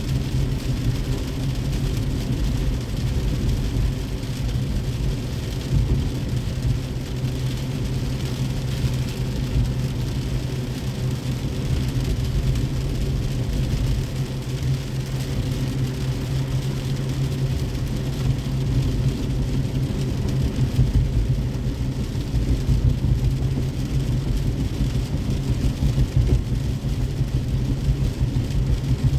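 A car driving in the rain: a steady low rumble of engine and road noise with an even hiss of rain and wet tyres.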